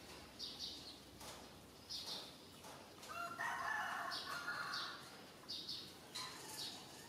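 Bird calls: short high chirps repeating roughly every two-thirds of a second, with one louder call lasting about a second and a half in the middle.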